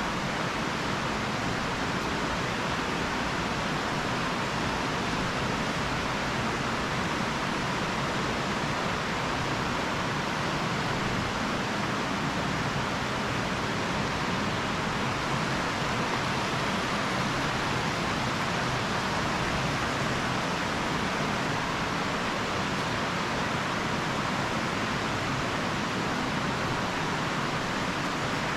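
Steady rushing of running water, an even noise with no change in level.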